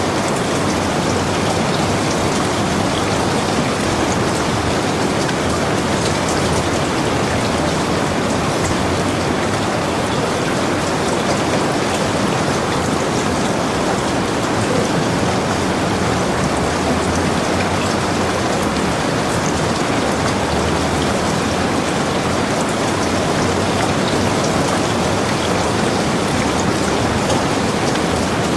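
Heavy rain falling steadily, a dense even hiss with many individual drops pattering on surfaces.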